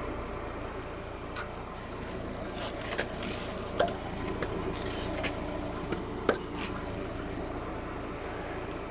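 Forklift engine running steadily while it holds a load, with a few short sharp knocks over the top.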